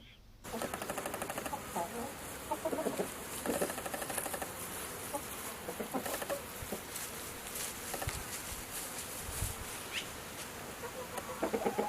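Farm birds clucking and calling, starting suddenly about half a second in.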